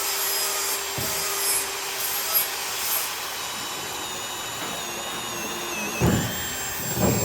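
A handheld power tool working the material, giving a steady rasping hiss with a faint high whine that wavers in pitch, and a couple of low thumps near the end.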